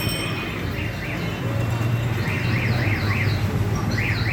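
A warbling electronic alarm tone sweeping quickly up and down, about three to four sweeps a second, in two runs over a steady low hum.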